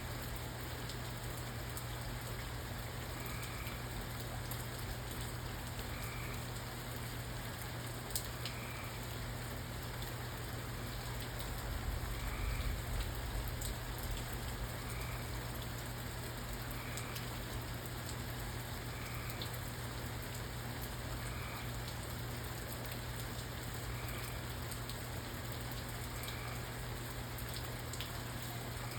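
Steady rain falling, with scattered drips and a faint short chirp repeating every two to three seconds. A brief low rumble swells about twelve seconds in.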